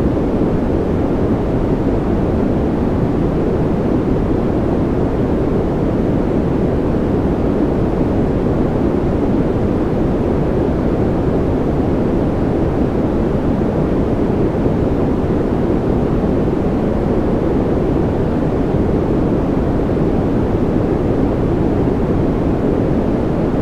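Steady, unchanging artificial noise for sleep, sold as white noise but weighted deep, with most of its weight in the low range and little hiss on top. No events or changes.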